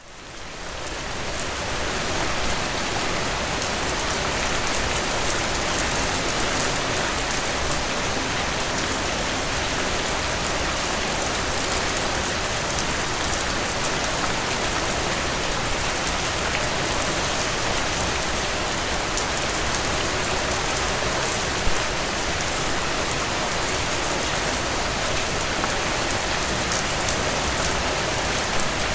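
Steady rainfall hissing on surfaces, with many fine drop ticks and no thunder, fading in over the first two seconds.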